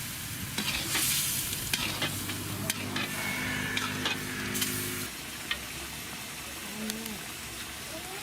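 Hands tearing parotta and mixing it into duck curry, heard as a steady wet crackling with scattered sharp clicks.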